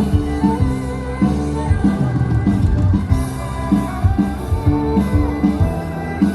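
Live band music with a steady beat and held notes.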